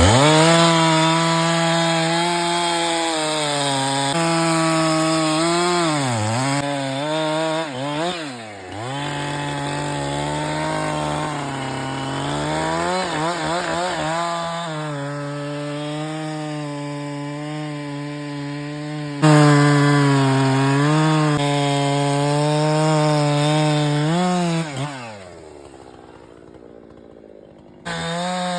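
Husqvarna two-stroke chainsaw running at high revs while cutting wood, its pitch dipping and climbing back several times as the throttle is eased and opened. Near the end it drops to a quiet low idle, then revs up again.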